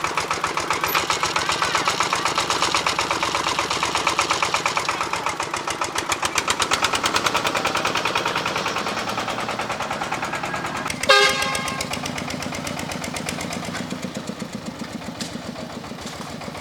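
A small engine running steadily with fast, even pulses. About eleven seconds in there is one sharp knock that rings briefly, and after it the running is a little quieter.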